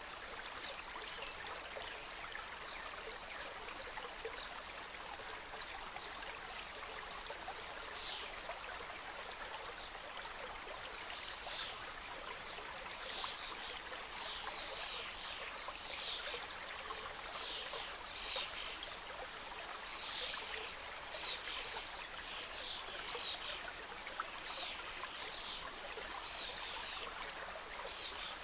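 Forest mountain stream running over rocks: a steady rush of water with many short, high splashes and trickles, which come more often from about halfway through.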